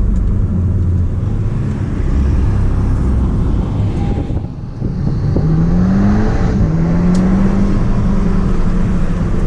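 Audi S3 8P's turbocharged 2.0 TFSI four-cylinder, fitted with an aftermarket downpipe, running under load while driven. It eases off briefly about four and a half seconds in, then the revs climb, with a quick gearshift about a second later and the revs climbing again.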